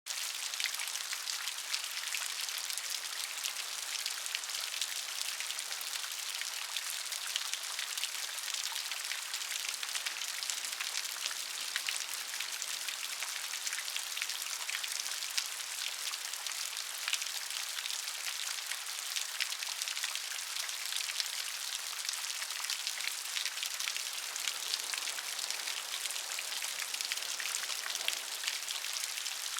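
Steady rain, a dense hiss of many small drops falling on a surface, with no lulls.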